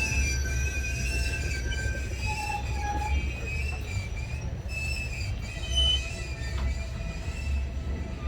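Canadian Pacific Holiday Train's cars rolling past: a steady low rumble of wheels on rail, with thin, wavering wheel squeal above it.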